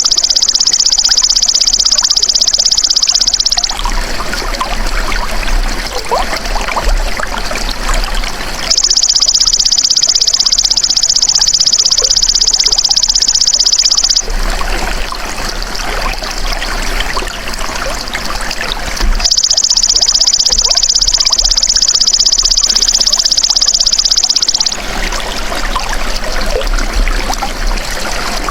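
Belalang emas insect singing a loud, high, fast-pulsing buzz in bouts of about five seconds: three full bouts, with a fourth starting near the end. Between the bouts, water trickles and burbles.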